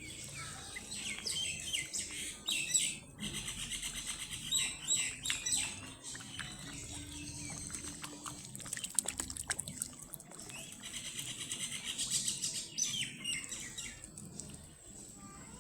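Ducklings peeping, quick high-pitched chirps in several flurries with quieter gaps between.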